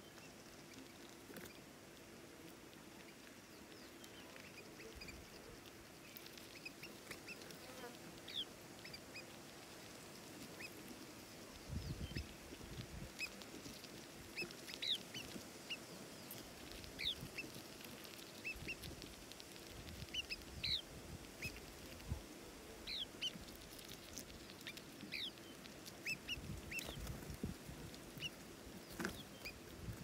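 Small birds calling with short, scattered high chirps, faint and irregular, growing busier after the first several seconds, with a few soft low thumps in between.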